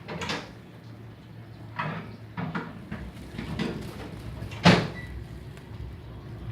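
A series of short knocks or bumps, five in all, the loudest near the end, over a steady low rumble.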